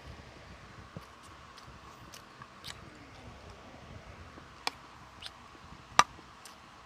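Mukbang eating sounds from a person eating fried chicken and fried rice: soft, scattered mouth clicks and smacks, with one sharp click about six seconds in.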